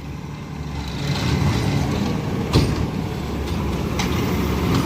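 Peterbilt 520 McNeilus ZR garbage truck's engine running steadily, with a sharp clack about two and a half seconds in and a fainter one near the end.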